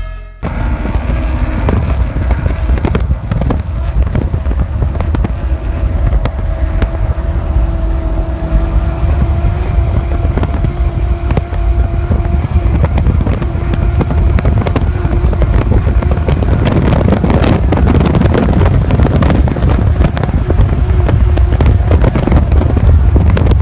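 Desert prerunner truck driving hard over rough ground: the engine runs under steady load over a heavy rumble, with many knocks and clatters from the suspension and tyres, and wind buffeting the microphone. It gets louder in the second half.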